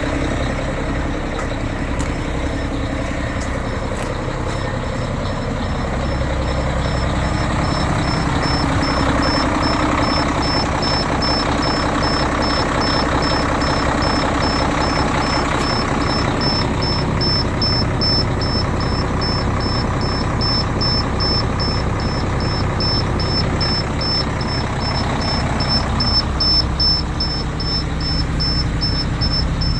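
Cummins ISM 370 inline-six diesel running steadily at idle in a 2002 International 2574 truck. A faint, regular high-pitched chirp repeats a few times a second in the background.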